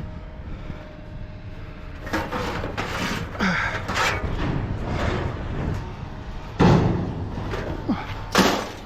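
Hand work on scrap metal: a run of knocks and scrapes, then two loud bangs about a second and a half apart near the end, over a steady low hum.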